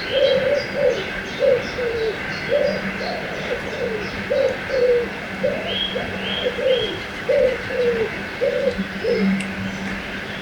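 A bird repeating a low two-note call, a flat note followed by a falling one, again and again, with small birds chirping high above it over a steady background hiss.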